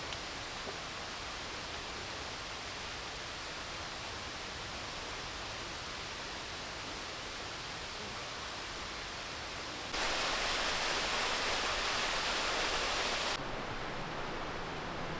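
Steady rushing of a waterfall. About ten seconds in it jumps abruptly louder and brighter for a few seconds, then drops back.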